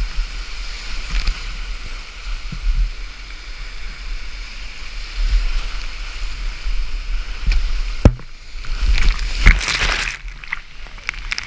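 Rushing creek whitewater with low thumps and knocks, and a burst of louder splashing around ten seconds in.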